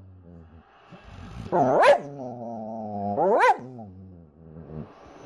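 A dog 'talking' in long drawn-out moaning howls whose pitch swoops sharply up and back down, twice, about two and three and a half seconds in.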